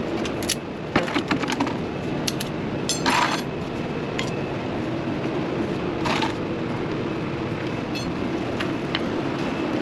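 Scattered metallic clinks and knocks of hand tools and hose fittings being handled, with a brief rattle about three seconds in, over a steady low hum.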